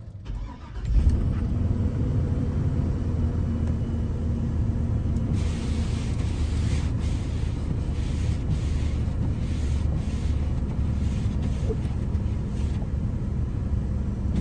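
Plow truck's engine running with a steady low rumble that comes in suddenly about a second in. A hiss comes and goes over it after about five seconds.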